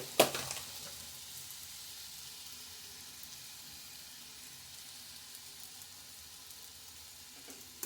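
Soaked sago pearls with potato and onion sizzling in oil in a kadai on a low flame, a steady hiss that slowly fades. A single sharp knock just after the start.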